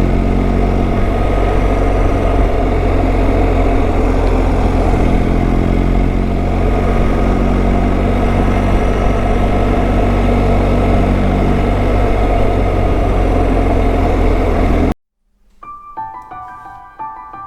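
A motorcycle engine runs at a steady cruise, with road and wind noise, heard on board while riding. Near the end it cuts off suddenly and soft piano music begins.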